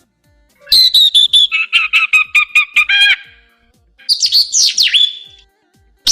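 A songbird singing in separate phrases: about a second in, a fast run of repeated clear notes lasting about two seconds, then after a short pause a quicker phrase of sweeping, falling whistles.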